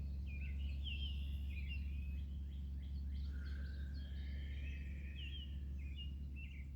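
Several birds singing and chirping, short whistled notes and glides, over a steady low rumble.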